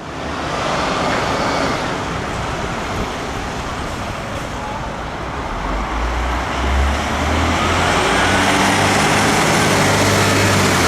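Steady street and traffic noise, with a heavy vehicle's engine rumbling low and growing louder from about six seconds in.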